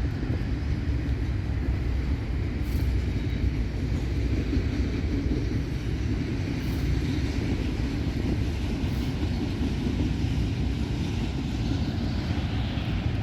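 Norfolk Southern freight train's double-stack cars rolling past on the rails: a steady rolling noise of wheels on track.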